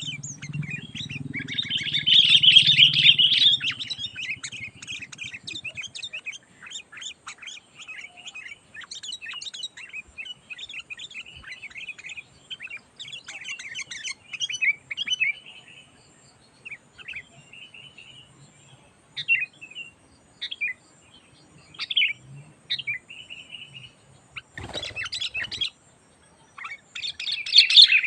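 Sooty-headed bulbuls chattering and calling in quick, bright phrases, with a dense loud burst a couple of seconds in and again at the end and scattered calls between. A brief rustling noise comes about 25 seconds in.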